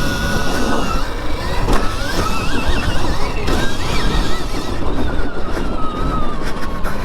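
Electric dirt bike riding, its motor whine gliding up and down with the throttle, over a steady rush of wind and ground noise on the rider's microphone.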